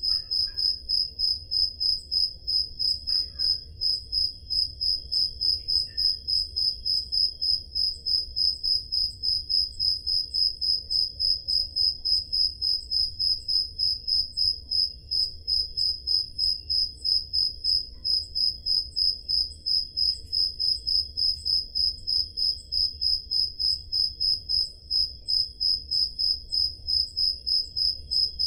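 Crickets chirping in an even, unbroken rhythm of about three chirps a second, with a fainter, lower-pitched chirping behind the main one.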